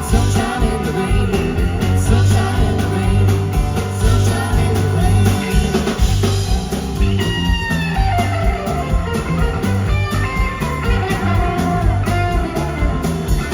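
Live country-rock band playing, with guitar over a steady bass and drums; a few sliding, bent guitar notes come through about seven seconds in.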